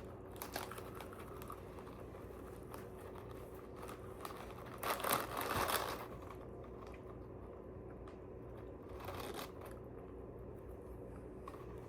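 Crinkling and rustling of the edible grass's packaging being handled, loudest in a burst about five seconds in, with a smaller rustle about nine seconds in.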